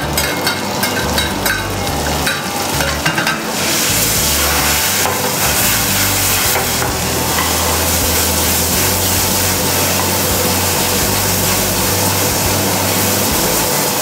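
Diced tomatoes and minced garlic frying in hot oil in a pan on a gas burner, sizzling. A few light knocks come in the first three seconds, then the sizzle turns louder and steady about three and a half seconds in.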